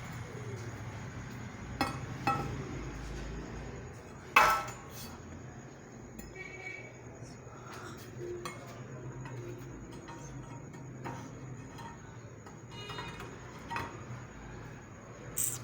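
Metal tools clinking and knocking against metal in several separate strikes, the loudest about four and a half seconds in with a short ring, over a steady low hum.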